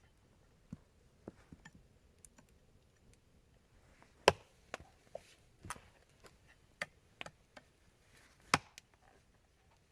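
Irregular sharp knocks and clicks of wood being struck or handled. Two knocks, about four seconds in and about eight and a half seconds in, are much louder than the rest.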